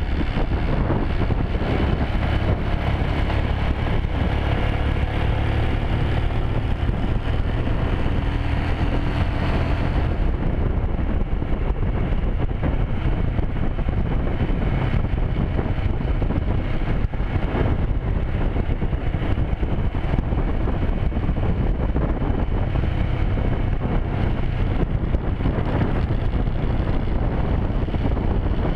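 Motorcycle riding along at speed: a steady engine and road rumble under wind rushing over the microphone. The higher hiss turns duller about ten seconds in.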